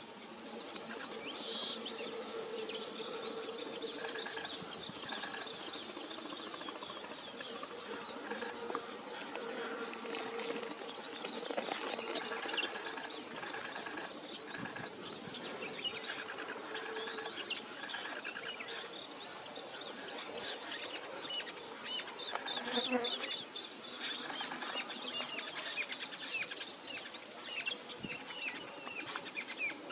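Birds chirping with many short, high calls throughout, one louder call about two seconds in, over a low steady hum that comes and goes.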